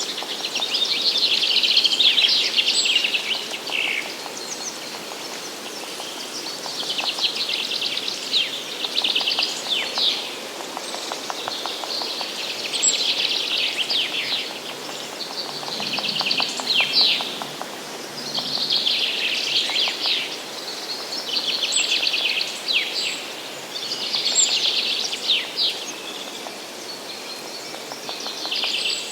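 A songbird singing the same short trilled phrase over and over, about every three seconds, some phrases ending in a falling flourish. Faint high call notes from another bird come in between.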